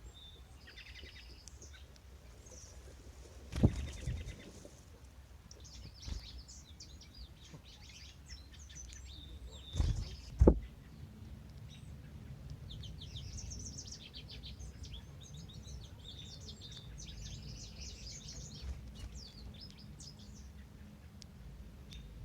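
Small songbirds singing and chirping in short high trills and notes over a steady low rumble of background noise. Three sharp knocks break in, one early and two close together near the middle.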